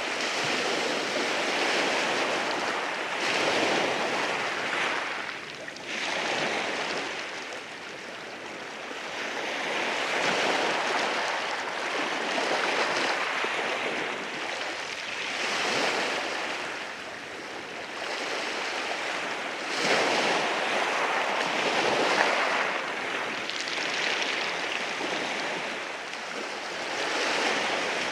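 Sea waves washing in over rocks on a shoreline, a continuous rushing surf that swells and ebbs every few seconds.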